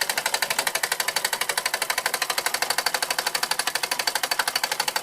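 1897 Carette live-steam toy engine running fast, a rapid even mechanical clatter of about thirteen beats a second.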